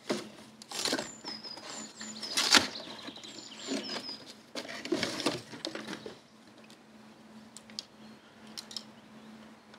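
Parcel packaging being wrestled open: bursts of rustling and tearing, with a sharp snap about two and a half seconds in, then quieter handling with a few small clicks.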